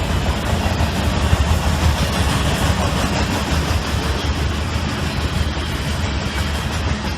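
Freight train of covered grain hopper cars rumbling past with a steady, loud, low rumble.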